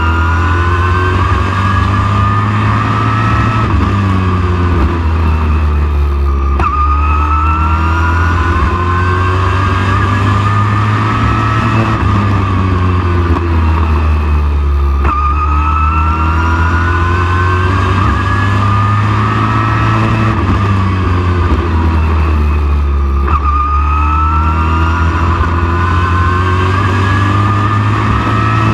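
Super truck's race engine running laps on a short oval. The revs climb for several seconds down each straight and drop into each turn, repeating about every eight seconds over a steady low rumble.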